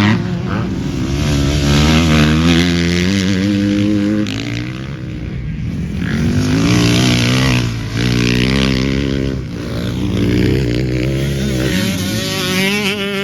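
Motocross bike engine (a 350) revving up and falling off again and again as it is ridden around the track, with the throttle rolled off every few seconds.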